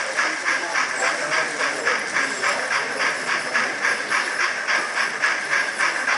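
Model steam locomotive chuffing, a rhythmic hiss at a steady pace of about four chuffs a second.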